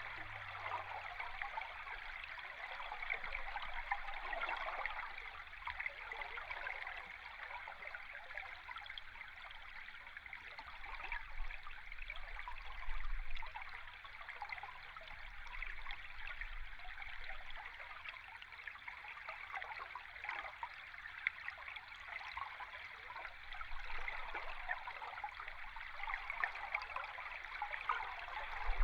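A river stream heard underwater: steady rushing water with a fine, constant bubbling crackle and a low rumble beneath, briefly swelling louder about halfway through.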